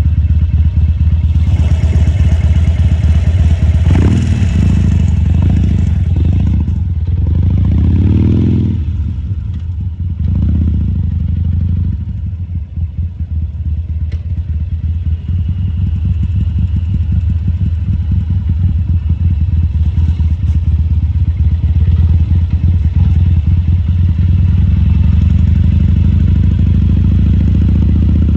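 A 2014 Harley-Davidson Sportster 1200 Custom's air-cooled V-twin running at low speed. The engine rises and falls in pitch several times in the first ten seconds, settles to a steadier run, and picks up again near the end.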